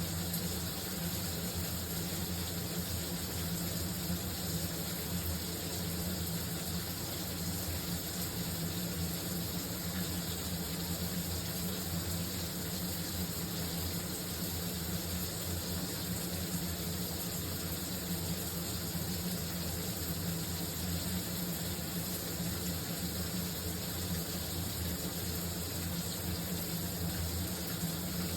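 Shower running steadily: an even hiss of falling water with a steady low hum underneath, unchanging throughout.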